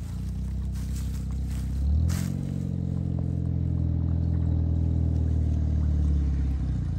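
Peugeot 106 hatchback's engine under load as the car climbs a dirt track. The revs rise about two seconds in, then hold steady and high.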